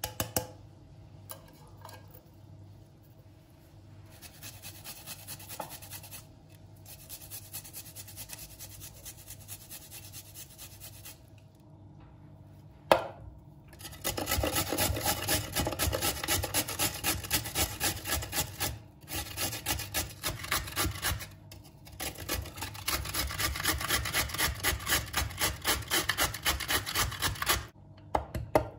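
Rhythmic rasping, scraping strokes, about three or four a second, something rubbed back and forth against a hard surface. A sharp knock comes near the middle, after which the strokes become steady and louder, with a couple of brief pauses.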